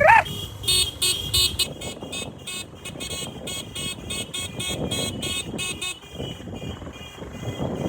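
Motorcycle engine and road noise while riding, with a short run of rapid high chirps about a second in.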